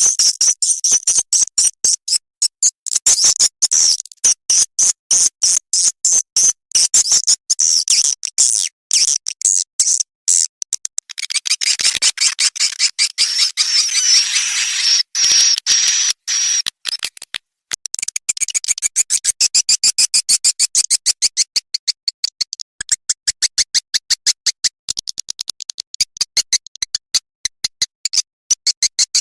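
Edible-nest swiftlet calls played as a lure track for swiftlet houses: rapid chattering trains of short, high clicks and chirps, with a buzzier trill in the middle.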